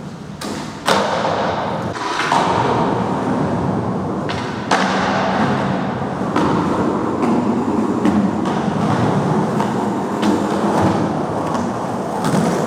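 Skateboard rolling on a parking-garage floor: a steady rumble of the wheels, broken by sharp clacks of the board about a second in, just after two seconds and near five seconds.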